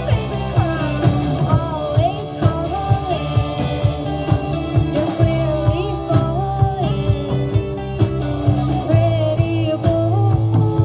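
A live band playing a song: a sung melody over sustained instruments and a steady drum beat.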